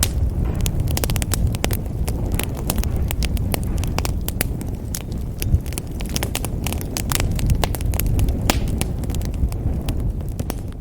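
Fire in a fireplace crackling: a steady low rumble of flames with many sharp, irregular pops and snaps.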